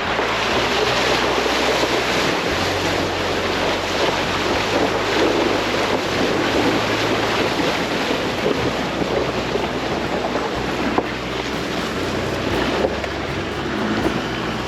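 Vehicle driving along a trail: a steady rush of tyre and wind noise over a low engine hum, with an occasional small knock.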